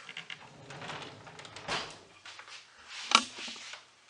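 Handling noises on wooden furniture: rubbing and scraping, with a sharp knock about three seconds in.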